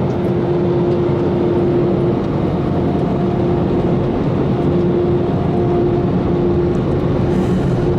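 Car-wash air dryer blowers running at full power, a loud steady rush of air with a constant tone over it, blowing the water off the car after the spot-free rinse.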